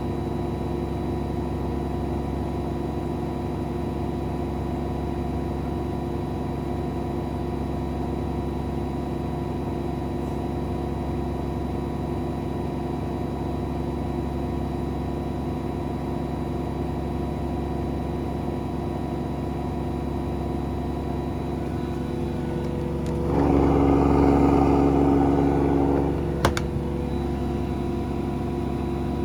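AEG Protex Plus washing machine in its final spin at steady high speed, on a freshly replaced tub unit with new bearings: a steady motor whine with several held tones over a low drum hum. About 23 s in, a louder hum swells for about three seconds, then a sharp click.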